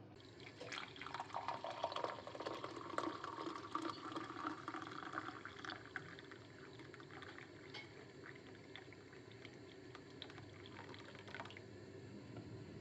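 Liquid being poured into a container for about five seconds, followed by fainter drips and small clicks.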